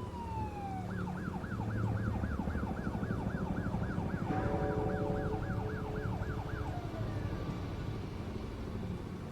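Emergency-vehicle siren: a falling wail, then a fast yelp of about three and a half rises a second, then winding down again, over a steady low hum.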